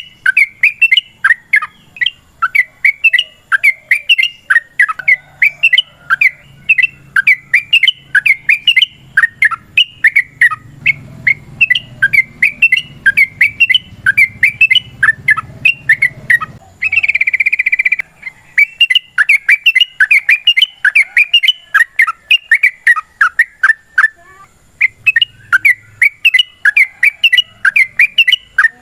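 Yellow-vented bulbul (trucukan) chattering in a long, fast run of short falling notes, about three or four a second. It breaks into a harsher buzzy note for about a second past the middle, then pauses briefly before carrying on.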